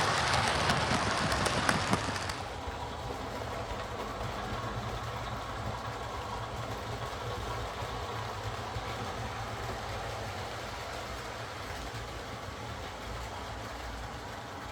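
Diesel engine sound from the onboard speaker of a sound-fitted OO gauge Class 24 model locomotive running on DC. It is louder and noisier for about the first two seconds, then drops to a steady idle.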